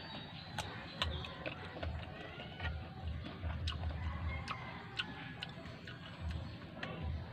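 Close-up crunching and chewing of raw green mango slices, with a sharp crisp crunch every second or so at uneven intervals and softer wet chewing between them.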